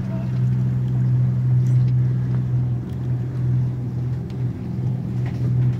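A boat's engine running steadily, giving a constant low hum, with wash and wind noise around it.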